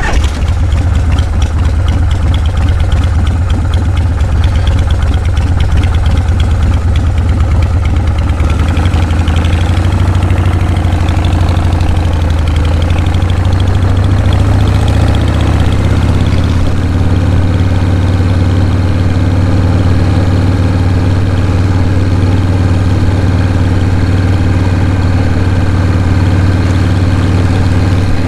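Motorcycle engine idling. Its note shifts over the first half and then settles into a steady idle.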